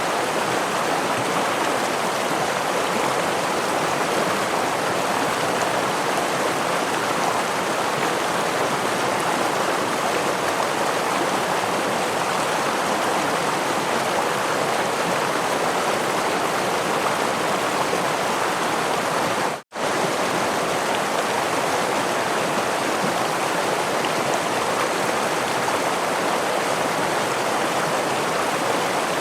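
Gentle stream flowing steadily over stones, a constant even water noise. It cuts out for a split second about two-thirds of the way in, then carries on unchanged.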